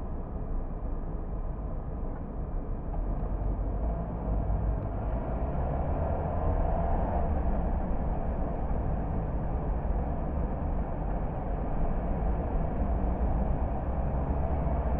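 Car driving along: steady engine and road noise, growing a little louder about five seconds in.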